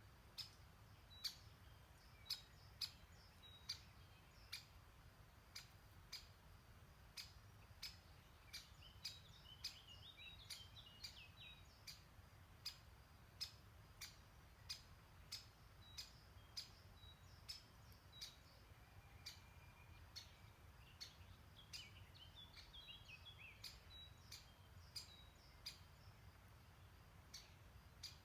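Faint songbird twittering, two short bursts of song, over a steady run of sharp ticks about one a second that thin out in the second half, and a low steady rumble beneath.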